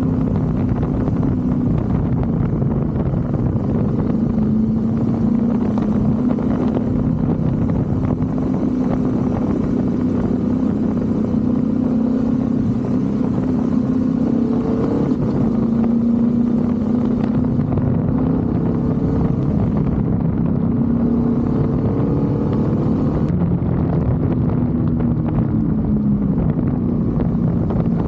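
BMW F 850 GS motorcycle's parallel-twin engine running steadily, its note rising and falling a little in the second half.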